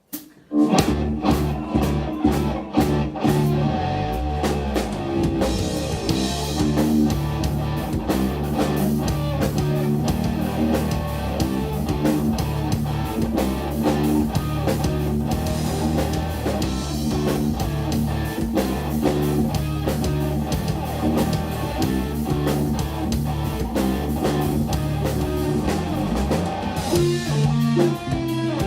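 Live instrumental progressive rock: electric guitar, bass guitar and drum kit playing together, kicking in abruptly just after the start and then running at full band level.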